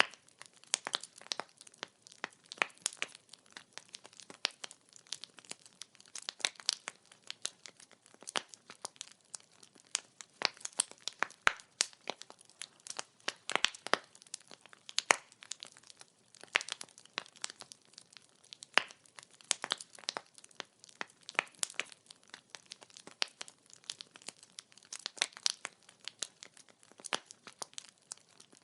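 Wood fire crackling: firewood snapping and popping in quick irregular clicks, several a second, over a faint hiss of burning.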